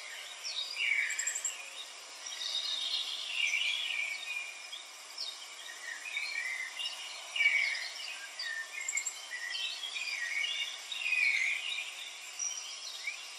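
Birds chirping in many short high calls, overlapping and irregular, over a faint steady background hiss.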